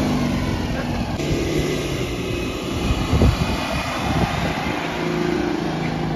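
Citroën Méhari's small air-cooled flat-twin engine running with a buzzy, steady note as the car drives off across loose sand.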